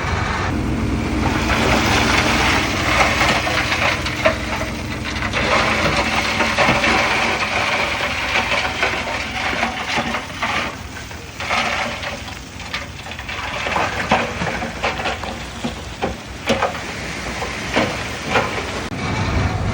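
Bulldozer's diesel engine running under load while pushing fill, with irregular crunches and cracks of soil and stones. The crunches and cracks come thickest in the second half.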